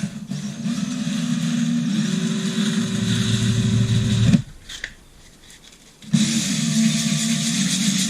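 Electric drill spinning a Suzuki GN250 engine valve held in its chuck, with sandpaper pressed against the valve to rub off deposits. It runs in two bursts, about four seconds and then nearly three, each speeding up as it starts, with a short pause between.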